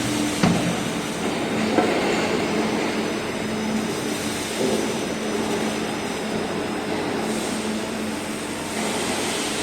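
Aluminium baffle ceiling roll forming machine running: a steady mechanical hum and clatter, with two sharp knocks in the first two seconds.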